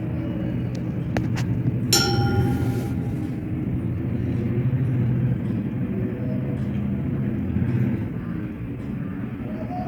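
Steady low rumble, with a few clicks and then a short ringing tone about two seconds in.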